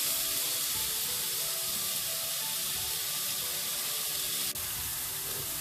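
Sliced zucchini sizzling steadily as it fries in sesame oil in a pan, with one small click a little after four seconds in.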